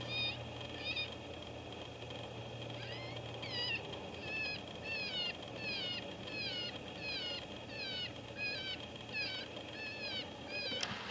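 Electronic predator caller playing a looped distress cry: a meow-like wail that falls in pitch and repeats evenly about twice a second. A single sharp click near the end.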